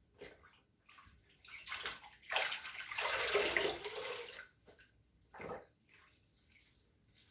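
Water splashing and pouring in short, irregular bursts, with one longer, louder pour from about two to four and a half seconds in.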